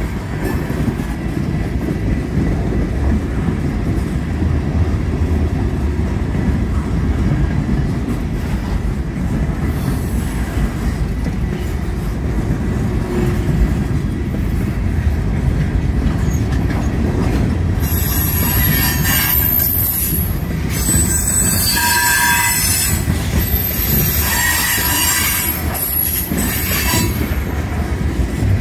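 Railway cars rolling past with a steady low rumble. About two-thirds of the way in, a high-pitched wheel squeal starts and rings out on and off over the rumble.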